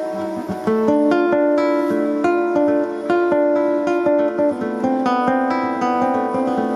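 Music on a plucked string instrument, most like an acoustic guitar: notes picked and chords strummed in quick succession.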